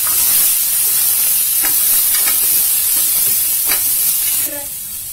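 Onion, ginger, garlic and frozen peas sizzling in mustard oil in a steel pan, stirred with a wooden spatula that scrapes the pan a few times. The sizzle drops to a quieter level near the end.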